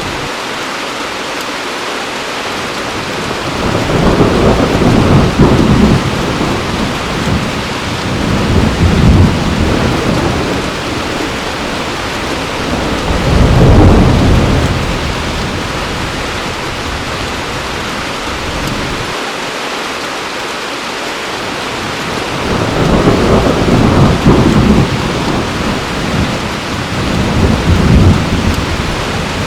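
Heavy rain falling steadily, with three long rolls of thunder rumbling over it: the first about four seconds in, a shorter one midway, and another in the last few seconds.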